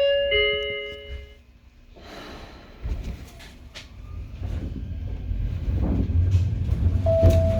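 The Hokuriku Railroad 03 series door chime sounding its ding-dong tones, ending about a second and a half in. After a thump about three seconds in, the train's low running rumble builds steadily as it pulls away, heard from inside a trailer car without motor sound.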